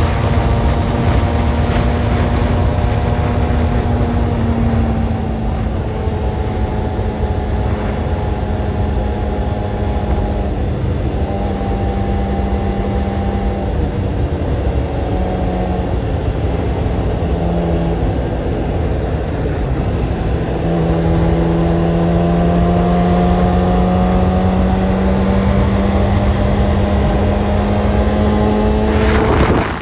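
Kawasaki sport motorcycle engine running at road speed under heavy wind rumble. The engine pitch holds steady, dips around the middle, then climbs slowly over the last several seconds as the bike pulls in one gear.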